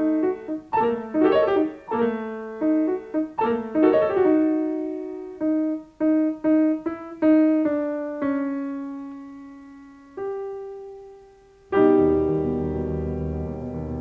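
Solo piano playing a passage of separate notes and small chords that thins out to a few held, fading notes, then a full chord with deep bass comes in near the end.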